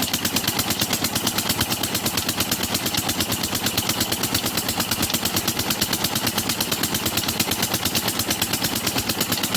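Petter diesel tube-well engine running steadily, its exhaust giving rapid, even beats.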